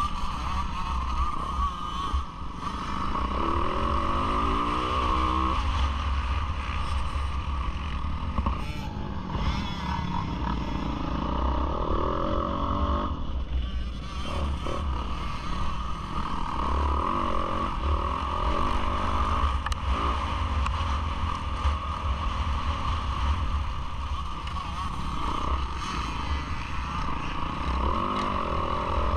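Yamaha YZ450F single-cylinder four-stroke motocross engine revving up and down through the gears under race load, its pitch rising and falling again and again, heard on board the bike.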